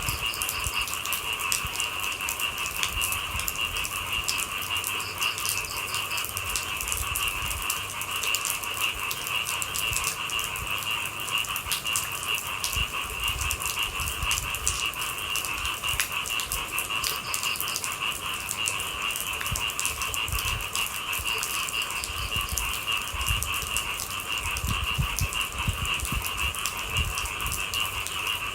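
Steady rain with a dense, continuous high-pitched chorus of night animals.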